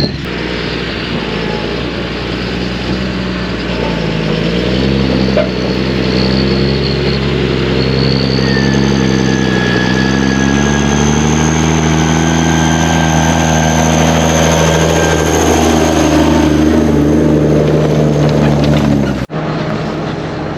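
Farm machine's diesel engine running steadily, its pitch rising and dipping as the revs change, then cutting off abruptly near the end.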